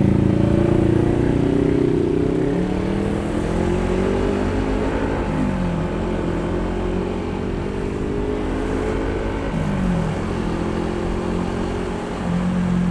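Honda ADV160 scooter's single-cylinder engine running under throttle while riding. Its pitch climbs slowly, dips sharply twice, about five and nine and a half seconds in, then climbs again and levels off near the end.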